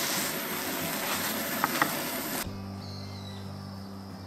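Chicken sizzling in a hot 10-inch Dutch oven, with a few sharp spattering pops, cut off abruptly about two and a half seconds in. Soft background music with steady held notes follows.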